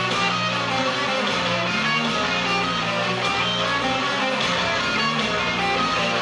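Live band music dominated by distorted electric guitar, played as a sustained, dense wall of notes over bass.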